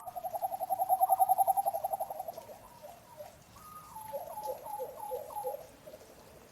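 A bird calling: a fast, low-pitched trill that swells and then fades over about two and a half seconds, followed about a second later by a string of short, falling notes. Faint thin high tones sound above it.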